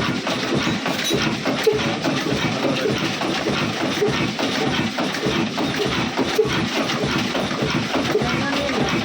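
Restored 1967 26 hp diesel engine running steadily, with a rapid, even beat from its firing strokes.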